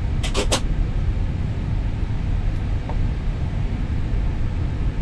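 Steady low rumble of an Airbus A320neo cockpit while parked at the gate before engine start, with a quick cluster of three or four sharp clicks about half a second in.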